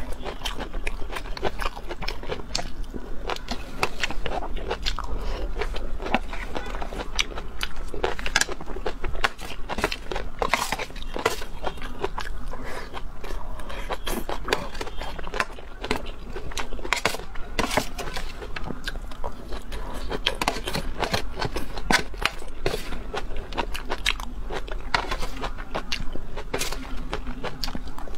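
Close-miked eating sounds: crunching and wet chewing of chopped chilies and stir-fried water spinach, a dense, steady run of crisp crunches and mouth clicks.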